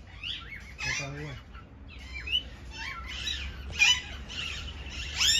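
Many caged birds chirping and squawking at once in an aviary, a busy stream of short overlapping calls with louder sharp, arching squawks about four seconds in and again near the end.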